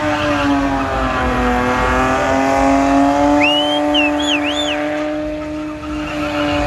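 A car engine held at high, nearly steady revs with tyres squealing, as in a burnout or drift. A few short rising-and-falling whistles sound about halfway through.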